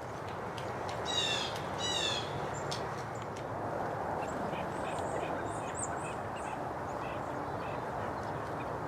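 A wild bird gives two short, harsh calls about a second apart, over a steady hiss, with faint high chirps from small birds later on.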